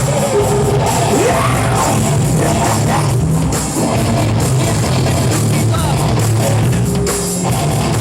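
Live rock band playing loudly, with electric guitar and a drum kit.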